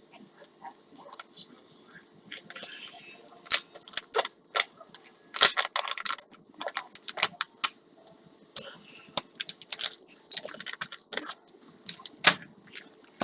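Packaging being handled and unwrapped: bursts of crinkling and rustling with sharp clicks, in two stretches with a short lull about eight seconds in.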